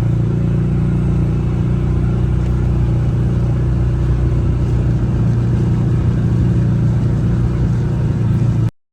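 A steady, loud low engine-like drone, even throughout, that cuts off abruptly near the end.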